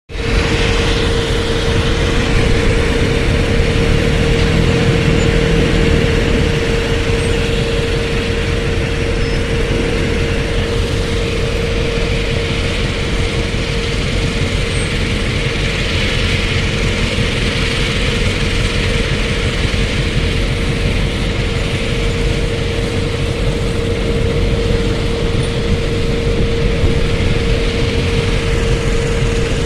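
John Deere tractor engine running steadily, with a constant hum over a low rumble.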